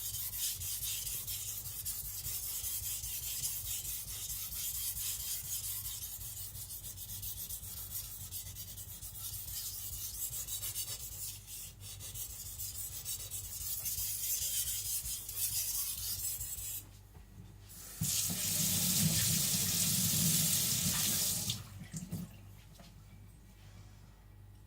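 Steady rasping scrape of a Tojiro white-steel (shirogami) nakiri being stroked back and forth on a Naniwa Professional water stone. This runs for about 17 seconds and stops. About 18 seconds in, running tap water comes on for roughly three and a half seconds and cuts off suddenly.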